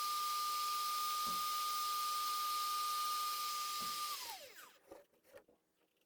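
Hot air soldering gun blowing steadily with a high whine, reflowing solder paste under a replacement LED on the bulb's board. About four seconds in it is switched off and the fan winds down, its whine falling away, followed by a few faint clicks.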